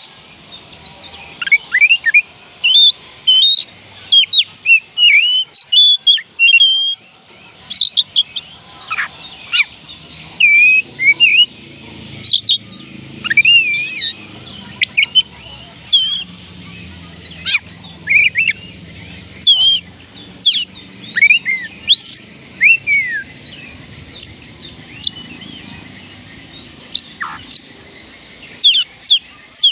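Oriental magpie robin singing: a long run of short, sliding whistled notes in quick phrases with brief pauses between them.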